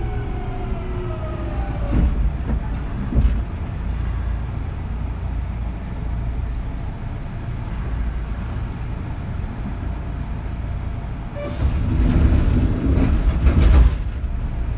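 Kintetsu 3200 series electric train rumbling along, heard from inside a motor car, with two knocks about two and three seconds in and a louder, noisier stretch near the end.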